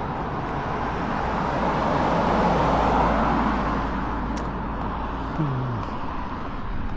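A car driving past, its tyre and engine noise swelling to a peak about two and a half seconds in, then fading away.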